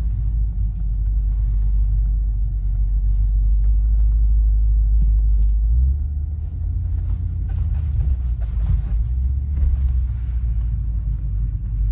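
Audi RS7 Performance's twin-turbo V8 running at low speed, a deep steady rumble heard from inside the cabin; about halfway through, the rumble shifts slightly higher in pitch.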